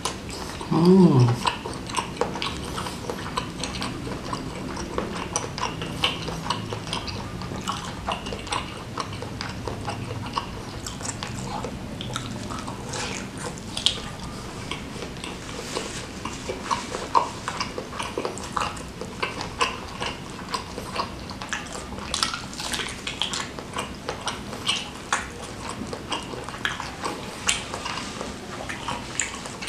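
Close-miked biting, chewing and wet lip-smacking from eating a jumbo squid stuffed with meatball filling in spicy sauce: a steady run of small clicks and smacks. A short falling hum about a second in is the loudest moment.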